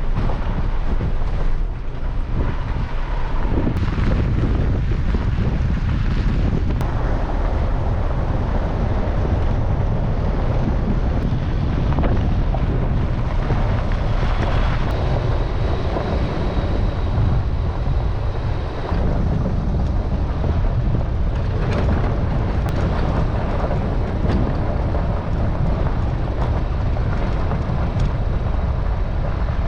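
Truck driving along a road: a steady rumble of engine, tyres and wind, with wind buffeting the microphone.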